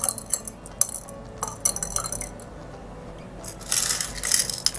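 Pebbles and marbles being put into glass jars, clinking against the glass in a series of sharp clicks, with a longer rattle near the end.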